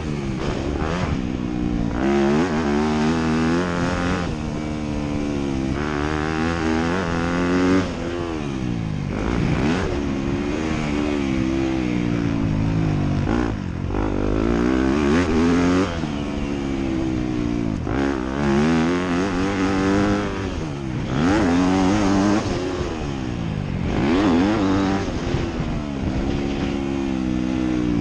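Motocross bike engine revving hard and falling off again and again as the throttle is opened and closed around the track, the pitch climbing and dropping every second or two.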